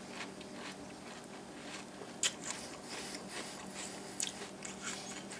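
A person chewing a mouthful of crisp rice cereal (Birthday Cake Pebbles) in milk, with soft crunches and small sharp mouth clicks scattered through. A faint steady hum runs underneath.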